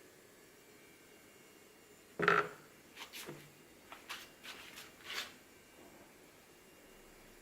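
One sharp knock, then a few shorter clicks and scrapes over the next three seconds, against a faint steady hiss.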